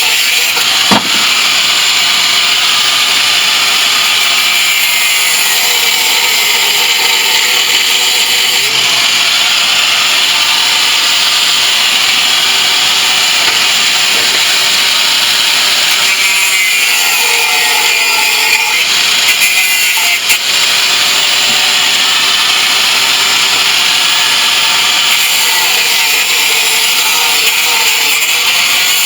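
Angle grinder running continuously under load, a loud high-pitched grinding noise whose motor pitch sags and recovers a few times, with brief drops about a second in and around twenty seconds.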